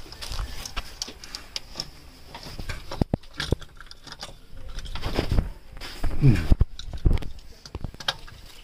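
Scattered clicks, taps and knocks of hands handling metal parts, busiest in the second half, with a brief faint voice about six seconds in and a steady high-pitched drone behind.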